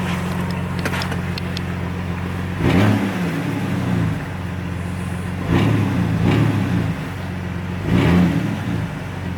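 2004 Jeep Wrangler TJ engine idling through an exhaust with the muffler removed, blipped three times with short revs that rise and fall. The rasp of the open, unmuffled exhaust is heard at each rev.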